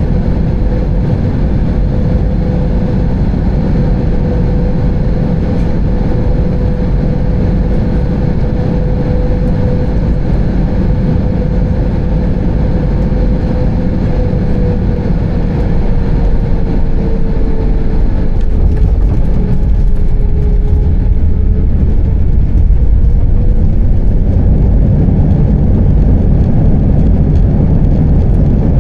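Airbus A320 cabin noise: a loud, steady low rumble with an engine tone that slides slightly lower about halfway through, the rumble growing a little louder near the end.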